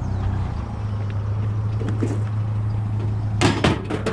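Pickup truck engine running steadily with a low hum, with a brief clatter of handled objects about three and a half seconds in.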